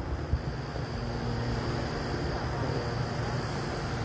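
Distant fireworks: one dull boom shortly after the start over a steady low rumble.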